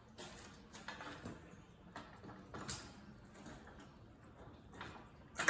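Irregular metallic clicks and knocks, roughly one every half second, with the loudest near the end, as the Massey Ferguson 165 tractor is jacked apart at the clutch housing.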